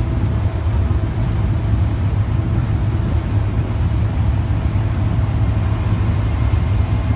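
Excursion boat's engine running steadily on board: a constant low drone with a faint steady hum above it.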